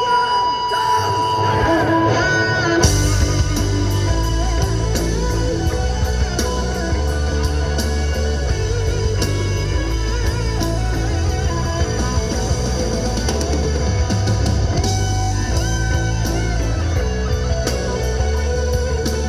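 Live rock band playing an instrumental passage with no singing: sustained tones and a guitar melody at first, then drums and bass come in about three seconds in and the full band plays on with electric guitar on top.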